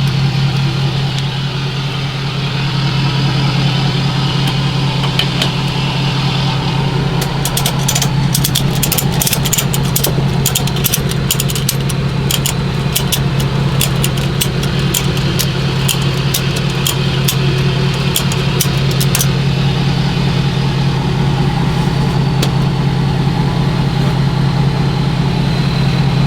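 Tow truck's engine idling steadily, with a run of sharp, irregular clicks and taps through the middle.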